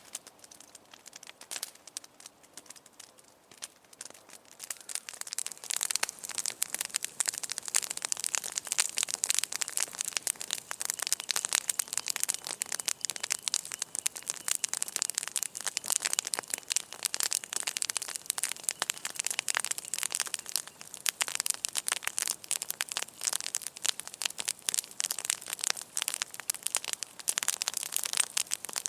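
Campfire crackling: a dense run of small sharp snaps. It is sparse for the first few seconds, then thick and steady from about four seconds in.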